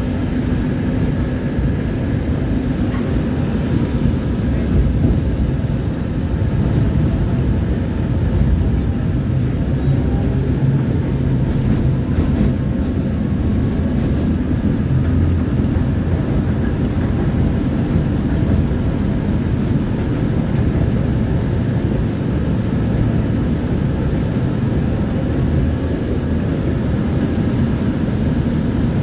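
Tram running: a loud, steady low rumble of wheels and running gear with a faint steady hum over it.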